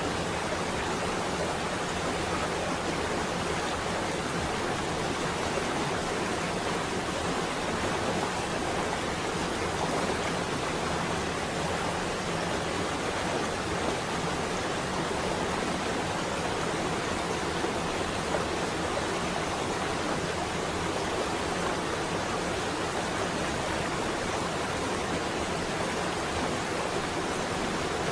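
Steady rain falling on a window: an even, unbroken hiss.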